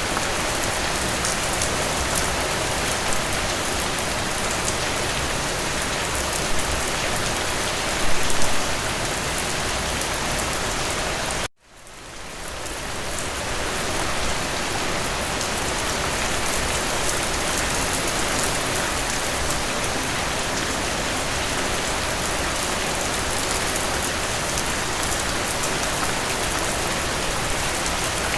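Steady rain falling, an even hiss with a brief louder patch about eight seconds in. About halfway through the rain sound cuts out suddenly and swells back to full level over a couple of seconds.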